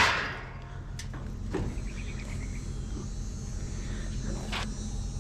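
A vehicle engine idling with a steady low hum, with a few light knocks and clicks about a second in, shortly after, and near the end.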